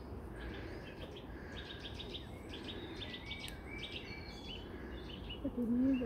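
A songbird singing a quick run of notes that steps down in pitch, over a low wind rumble on the microphone. A brief low hum sounds near the end.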